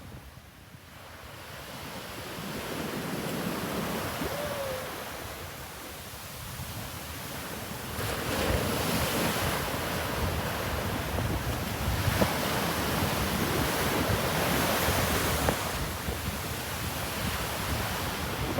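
Big sea waves breaking as heavy surf, with wind buffeting the microphone; the surge of noise swells and grows louder about eight seconds in.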